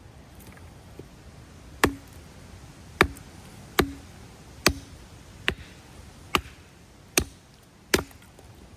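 Firewood being chopped: about eight sharp strikes of a blade into wood, roughly one every 0.8 seconds, several with a brief low ring after the hit.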